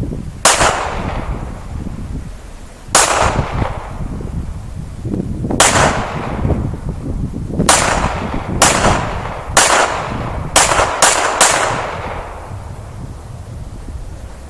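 Nine shots from a Taurus Millennium PT138 Pro .380 ACP pistol. The first three come a few seconds apart, then six follow in quicker rapid fire, the last three about half a second apart. Wind rumbles on the microphone throughout.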